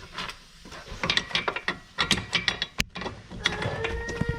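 Hand ratchet clicking in quick, irregular strokes as it backs out a torch-heated, rusted 15 mm caliper bracket bolt, followed about three seconds in by a short steady squeal as the bolt turns.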